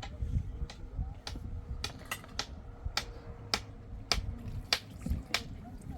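A run of sharp, short knocks or taps, roughly one every half second to second, over a low rumble.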